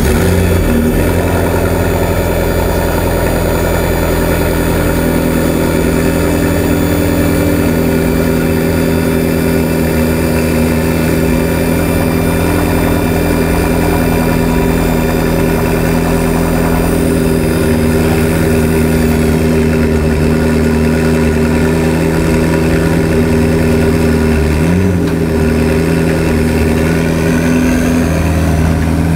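McLaren MP4-12C's twin-turbocharged 3.8-litre V8 idling steadily, with a brief small rise and fall in revs about 25 seconds in.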